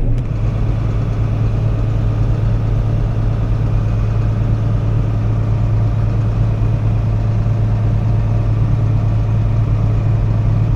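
Combine harvester running steadily with a constant low drone of engine and machinery, working light, not much more than idling.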